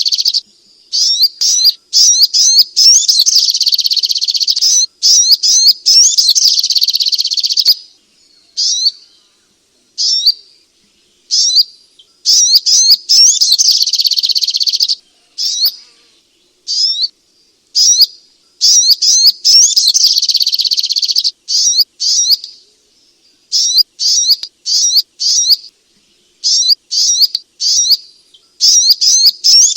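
Sogok ontong (spiderhunter) singing: fast, high, repeated chirps in long rapid runs, broken by pauses and shorter separate phrases.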